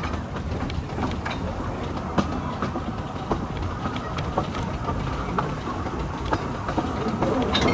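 Narrow-gauge train running along the track: a steady rumble with irregular clicks and knocks of the wheels over the rail joints.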